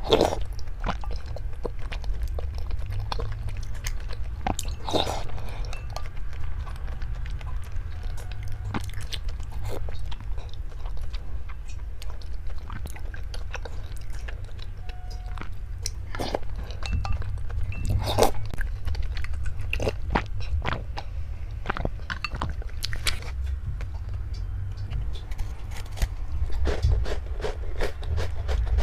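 Close-miked eating: a person biting and chewing crunchy food, with scattered sharp crunches over a steady low rumble.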